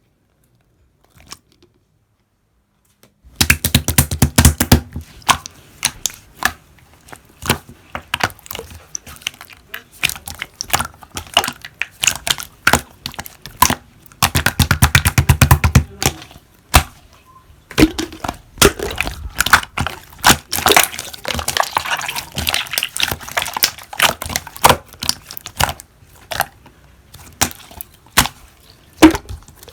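Slime being squeezed and worked by hand, giving dense sticky clicks and crackles. It starts about three seconds in, after near silence, with heavier squishing bursts now and then.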